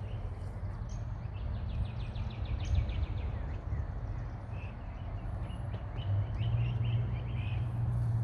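Steady low outdoor rumble with birds calling over it: a fast rattling run of short high notes about two seconds in, then a scattering of short chirps in the second half.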